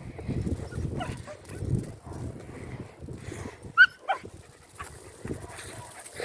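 Dogs playing, with scuffling and low noise and a sharp, short high yip about four seconds in.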